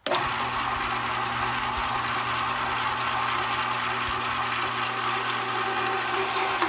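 A 1 hp, 1100-watt #22 electric meat grinder switches on abruptly and runs steadily, its motor humming and gears whining at an even pitch.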